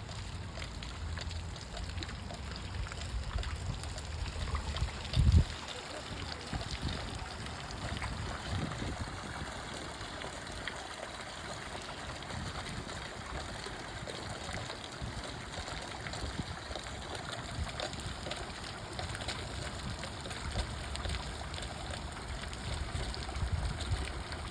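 Water running in a garden stream, a steady trickling rush, with a loud low thump about five seconds in.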